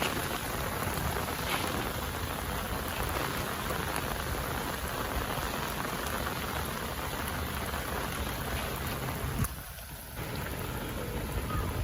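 Steady rain falling and pattering on surfaces, an even hiss that dips briefly about nine and a half seconds in.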